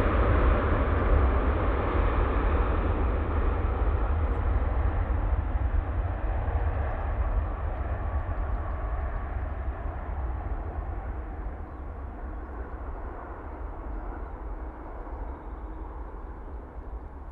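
Jet airliner engine noise fading steadily as the aircraft moves away, with a low rumble underneath.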